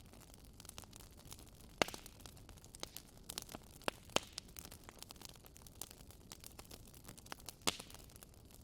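Wood fire in a fireplace crackling: a steady low hiss with irregular small pops and a few sharper snaps, the loudest about two seconds in and near the end.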